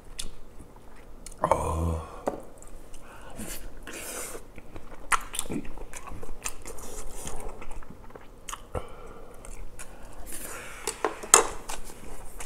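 Close-miked eating: a person biting and chewing a minced pork-rib patty, with wet mouth sounds and scattered sharp clicks. A short hum of the voice comes about a second and a half in.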